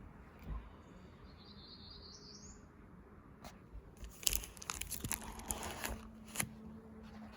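Paper rustling and crackling for about two seconds as a book page is handled and turned, with a few sharp clicks. Earlier, a faint high rising chirp.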